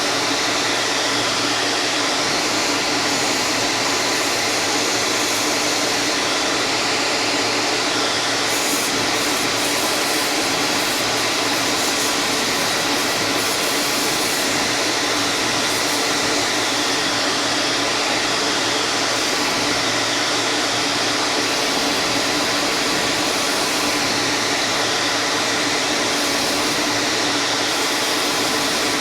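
Steady, unbroken running of an electric woodshop machine, a power tool or dust extractor, with an even whine that holds without change.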